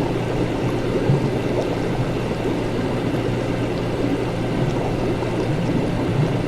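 Laboratory ambience: a steady low hum under a continuous, irregular bubbling of liquid, with a few faint light ticks.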